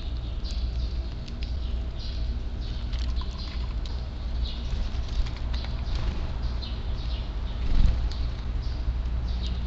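Eurasian tree sparrows chirping: many short, high, downward-sweeping calls in quick succession, over a steady low rumble, with a dull bump about eight seconds in.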